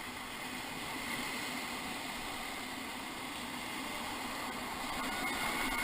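Steady rushing of whitewater on a river rapid: an even, dull noise with a faint, high, steady whine over it.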